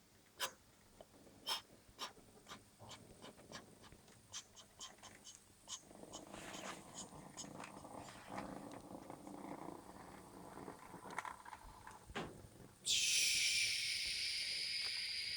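Hornby 00 scale M7 tank locomotive running on model track, its wheels clicking sharply and irregularly over the rail joints, then the small electric motor whirring. About thirteen seconds in, a much louder steady hiss with a few held high tones starts suddenly.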